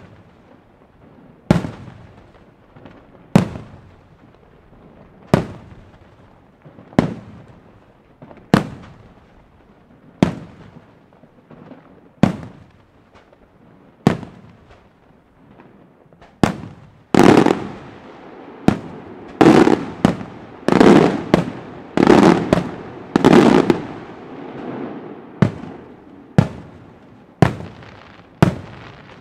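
Aerial firework shells bursting, with a sharp bang every second and a half to two seconds. Around the middle comes a quick run of louder bangs with a crackling rumble, then single bangs resume.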